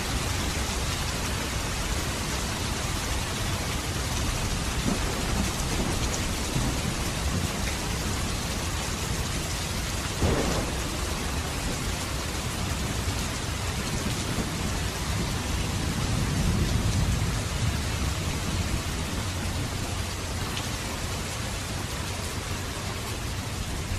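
Steady rain falling, with thunder: a short sharp crack about ten seconds in and a low rumble that swells and fades a little past the two-thirds mark.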